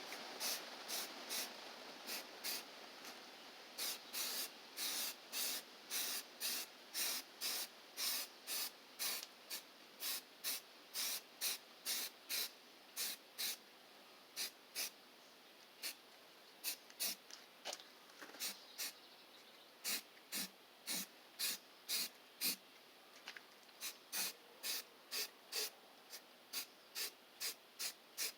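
Aerosol spray-paint can sprayed in many short hissing bursts, about two a second, with a few brief pauses between runs of bursts.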